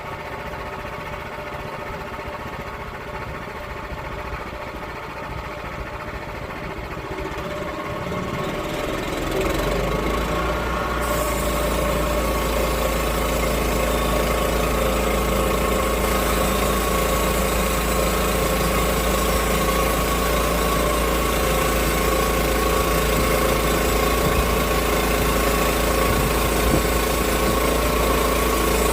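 Sawmill engine running steadily. It grows louder about eight to ten seconds in, and a hiss joins it from about eleven seconds.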